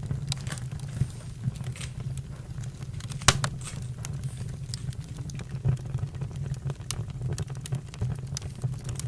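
Campfire crackling: wood pops and snaps come irregularly over a steady low rumble of the flames, with one louder pop about three seconds in.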